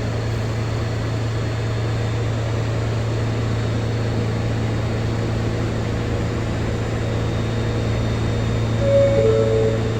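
New York subway train at the platform, its equipment giving a steady low hum, then a two-note descending door-closing chime near the end.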